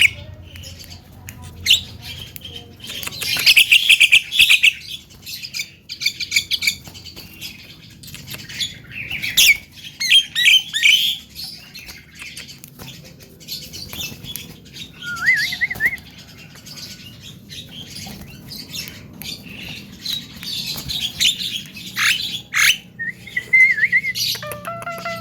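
Young Javan myna (jalak kebo) calling: repeated bursts of harsh chirps and squawky chatter, broken by a short wavering whistle about fifteen seconds in and again near the end.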